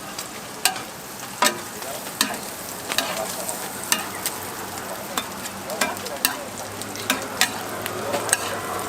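Egg-toast filling frying on a flat griddle with a steady sizzle, while a metal spatula clacks and scrapes sharply against the hot plate many times.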